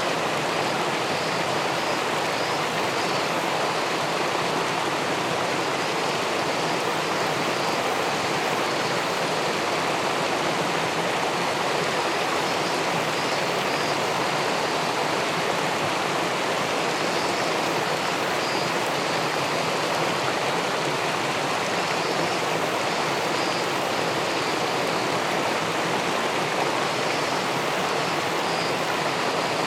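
River water pouring over a weir and rushing through the pool below, a steady, even rush with no change.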